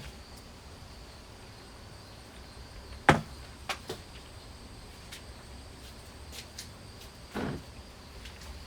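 A few sharp knocks and clicks, the loudest about three seconds in and a duller one near the end, over a faint steady high whine.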